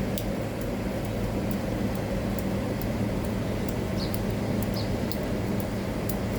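A steady low mechanical hum, with scattered light clicks and two short high chirps about four and five seconds in.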